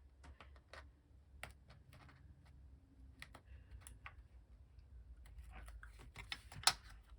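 Scissors trimming fabric washi tape on a paper journal: irregular small snips and clicks, the loudest near the end.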